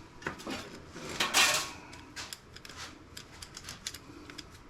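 Small metal and plastic parts clicking and clattering as an optical drive is pulled apart by hand and with small tools, with a louder rattle just over a second in and then scattered light ticks.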